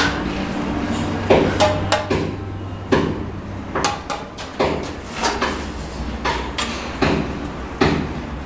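Bricklaying work with a trowel on cement bricks and mortar: irregular sharp knocks and scrapes, about one or two a second, over a low steady hum.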